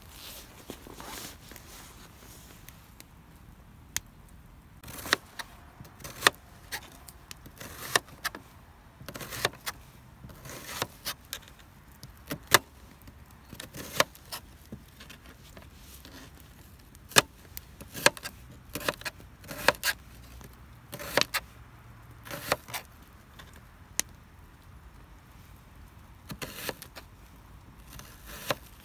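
Sporadic sharp clicks and light metallic clinks at irregular intervals, about a dozen over the stretch, with short rustling bursts between them, as of camp gear being handled.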